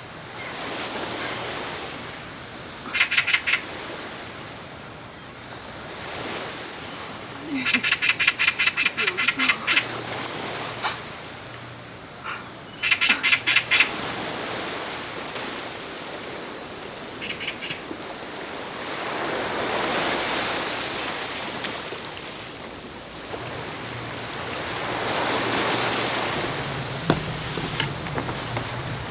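Sea waves washing on the shore, the surf swelling and ebbing, with a bird's call cutting in four times as short runs of rapid, sharp repeated notes.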